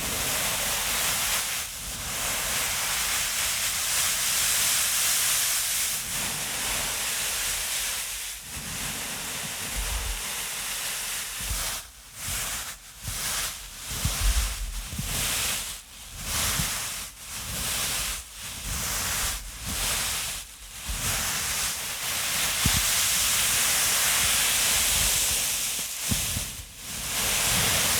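A rushing, hissing ASMR trigger sound held close to the microphone, steady at first. Partway through it breaks into separate strokes about once a second, then runs steady again near the end. It sounds more like waves washing than like footsteps crunching in snow.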